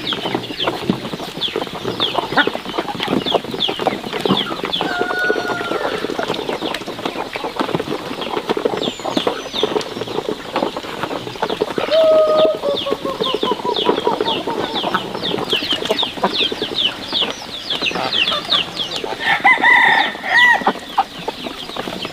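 A flock of chickens: a steady stream of short, high peeping calls with clucking, and a few longer calls, one about twelve seconds in and another near the end.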